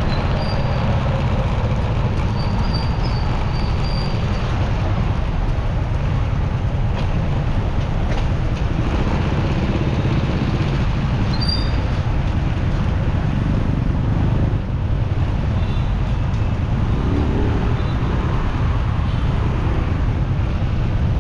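Steady traffic and road noise heard from a moving motorcycle, with wind rumbling on the microphone.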